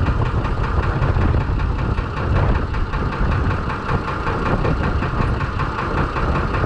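Six-cylinder Perkins diesel engine in a Fordson Major tractor, running steadily at idle, freshly started and not yet warmed up.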